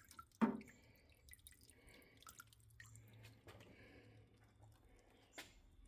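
Liquid dripping and small handling clicks, as a carburetor part wet with cleaning solution is handled over the ultrasonic cleaner's tank. There is a sharper knock about half a second in.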